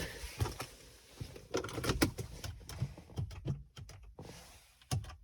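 Irregular knocks, clicks and rustling of things being handled, with a cluster of sharp knocks about two seconds in and another near the end.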